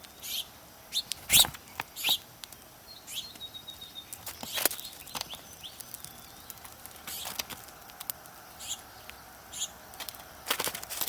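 Birds chirping in short, scattered calls, with sharp taps and knocks at irregular intervals; the loudest knock comes about a second and a half in.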